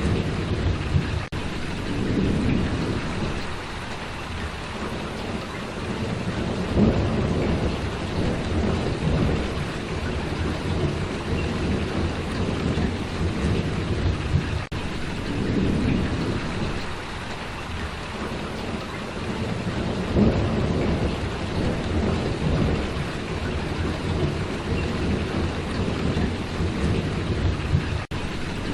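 Steady heavy rain, with low rumbling swells that come and go every few seconds.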